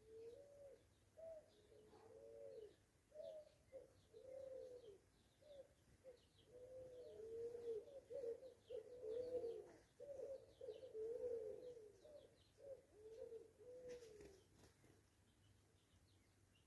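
Faint bird calls: many short, soft coo-like notes that rise and fall, crowding together in the middle and stopping a couple of seconds before the end, with faint high chirps of small birds over them.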